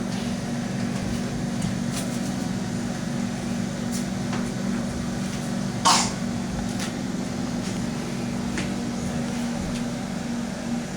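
Steady machine hum with a low, even drone. A single sharp click sounds about six seconds in, with a few faint ticks around it.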